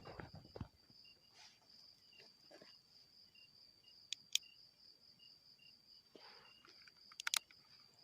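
Night insects: a steady high-pitched trill throughout, with short, thinner chirps from another insect at irregular spacing. A few sharp clicks sound about four seconds in and again near the end, and there are steps or rustling in the first half second.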